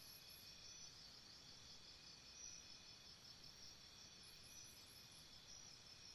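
Faint insects chirping in a steady, pulsing high-pitched chorus, with a brief higher trill about four seconds in.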